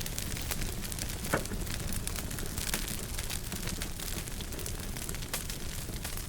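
Wood fire crackling in a fireplace: a steady low rumble of flames with frequent small snaps and pops, and one sharper, louder pop about a second and a half in.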